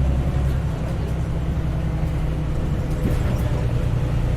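Engine of a Heuliez GX317 LPG (GPL) city bus running steadily under way, heard from inside the cabin as a low hum with a faint higher whine.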